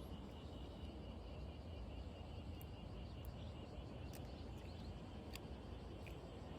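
Faint outdoor ambience: a steady low rumble under a steady high-pitched drone, with a few sharp faint ticks.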